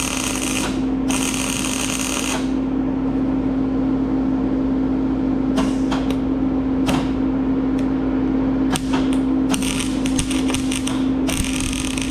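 MIG welder arc crackling in stop-start runs while welding old steel pipe, which welds poorly, over a steady electrical hum. The crackle stops after about two seconds, comes back in short bursts, and runs again through the last few seconds.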